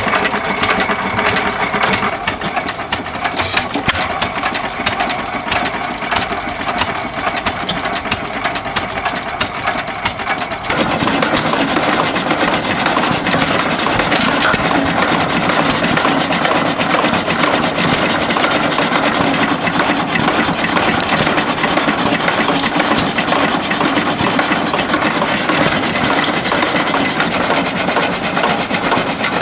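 Antique stationary engines running, a dense rapid mechanical clatter. The sound changes abruptly and grows louder about eleven seconds in.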